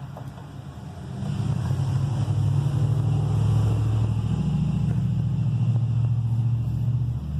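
A motor vehicle's engine running with a low, steady rumble that swells about a second in and then holds loud.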